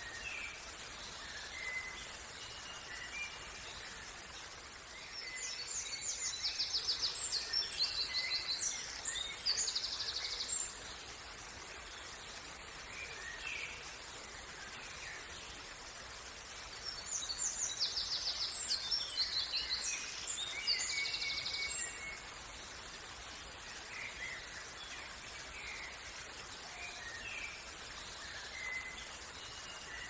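Songbirds singing over a steady background hiss. There are two long bouts of rapid, high trilling song, about five seconds each, a few seconds in and again past the middle, with scattered short chirps between them.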